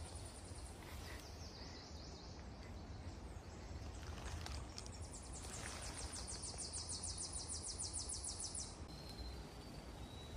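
Outdoor ambience with a steady low rumble and a high, rapidly pulsing trill that starts about five seconds in and stops just before the end.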